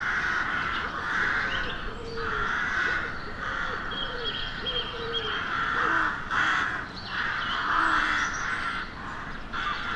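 Crows cawing repeatedly, several harsh calls following close on one another and overlapping.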